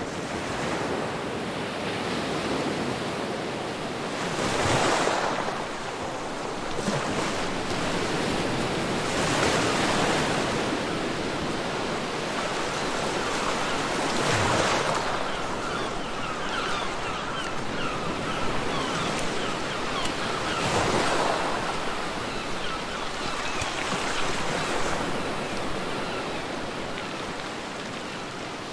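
Ocean waves breaking and washing up the beach, one surge every several seconds over a steady rush of surf, with some wind.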